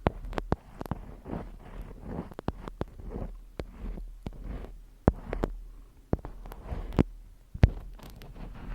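Close-miked ASMR handling sounds: irregular sharp taps and clicks, a few much louder than the rest, over soft rustling, with a low steady hum underneath.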